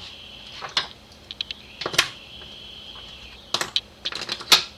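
Sharp clicks and clinks of small metal parts and tools being handled on a workbench, in irregular clusters, loudest in a quick run near the end.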